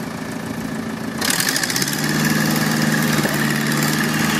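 Backhoe's diesel engine running, then throttled up about a second in and running louder and steadier under load.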